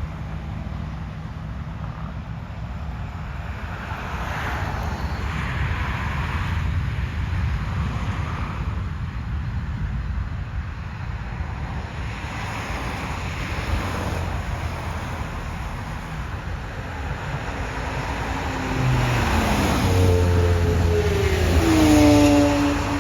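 Road traffic passing. Near the end one vehicle passes close, its engine note falling in pitch as it goes by.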